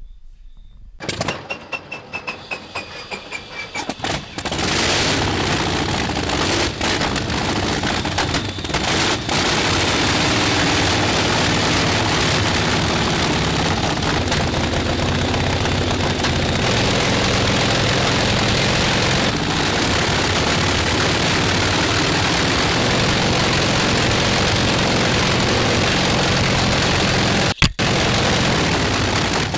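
Lishitoys L6039 toy quadcopter's small electric motors and propellers starting in stuttering pulses about a second in, then running steadily with a loud whir from about four seconds on, the pitch shifting as the motor speed changes. There is a brief cut-out near the end.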